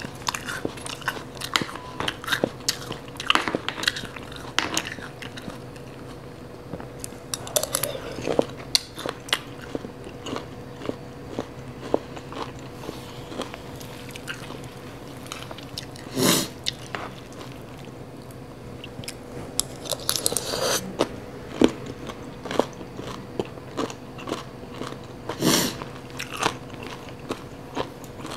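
Close-miked chewing and crunching of crisp shredded green papaya salad, with many small wet mouth clicks. Three louder noises stand out in the second half.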